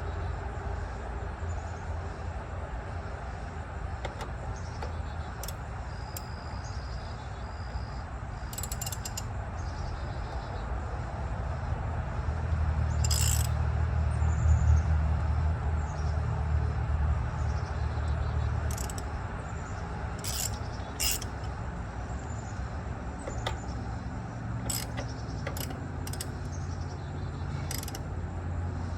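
Steady low mechanical hum that swells for several seconds about twelve seconds in, with scattered sharp metallic clicks, from work on an electric winch.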